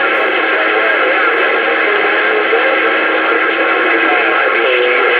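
CB radio receiver audio: a continuous transmission cut off above about 5 kHz, with a steady hum and wavering, garbled tones and no clear words.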